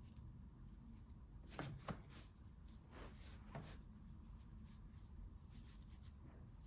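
Faint hand sounds of knitting: light clicks and rustles of needles and yarn, two sharper taps about a second and a half in and two softer ones near the middle, over a low room hum.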